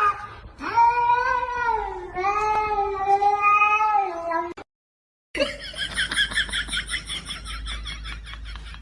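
A cat yowling: two long, drawn-out meows, the second slightly lower and steadier. After a brief silence a different clip begins with a fast, rapidly repeating sound.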